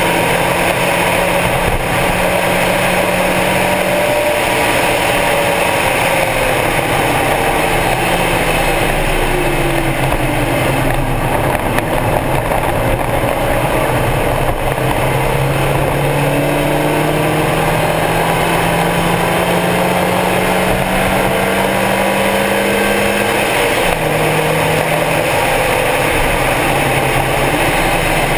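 Stock Mazda Miata's inline-four engine running hard at track speed. Its note falls a little twice in the first ten seconds, then climbs steadily for about nine seconds as the car pulls through a gear, and drops sharply at an upshift near the end.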